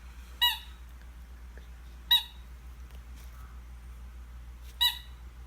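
A squeaky dog toy ball squeaked three times by a small dog mouthing it, short sharp squeaks spaced unevenly about a second and a half to three seconds apart.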